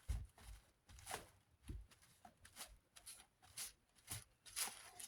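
Faint, irregular scratching and a few light knocks as a plastic desk-fan blade is cleaned by hand.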